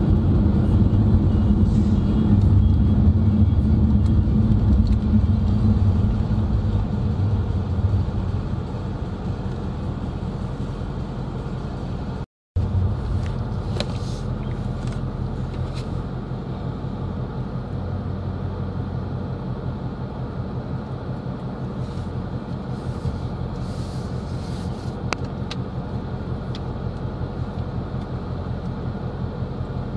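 Steady low road and engine rumble heard from inside a moving car, louder for the first several seconds and then easing off. The sound cuts out completely for a split second about twelve seconds in.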